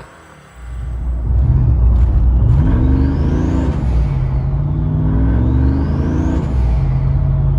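A vehicle engine comes in loudly about half a second in and is revved twice, each rev climbing and then falling back to a steady run. A high whine rises and drops along with each rev.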